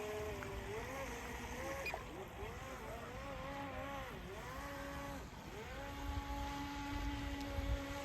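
Volantex Vector SR48 RC speedboat's electric motor whining, its pitch rising and falling as the throttle is worked, then held steady and high over the last two seconds at full power.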